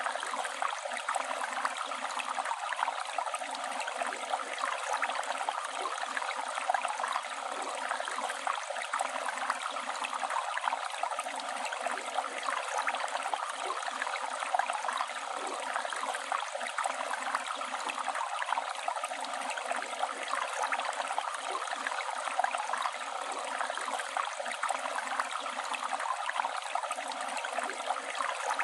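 Flowing river water running steadily over stones, a continuous rushing, bubbling babble.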